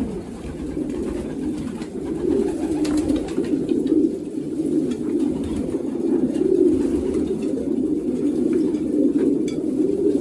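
Many racing pigeons cooing together in a loft, a steady overlapping chorus of low warbling coos.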